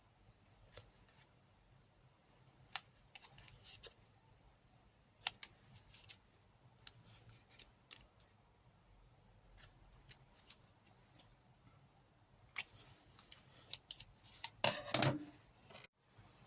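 Scissors snipping through thin card: scattered short snips, with a louder, longer run of cutting and card handling near the end.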